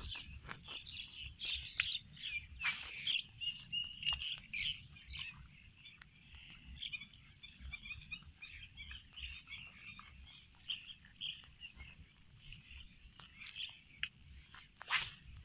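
Many birds chirping and chattering without a break, a dense mass of short high notes, over a low rumble and a few soft scuffing clicks.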